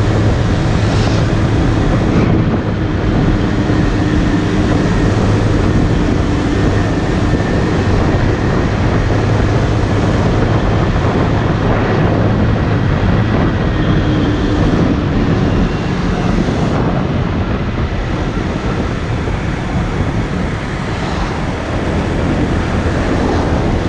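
Motorcycle running at a steady pace while being ridden, its low engine hum under heavy wind and road noise.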